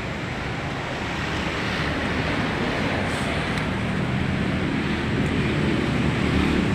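Steady rushing outdoor noise of street traffic and wind on the microphone, growing slowly louder.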